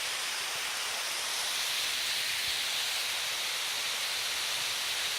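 Steady rushing of river water flowing over a waterfall, an even hiss.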